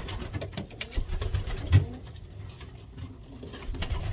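Handling noise while a racing pigeon is held and its wing spread: scattered clicks and rustles with low thumps, the loudest about two seconds in.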